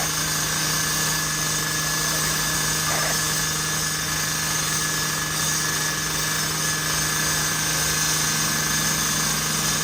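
Steady engine or fan noise running at a constant speed, with a low hum and a faint high whine over an even hiss.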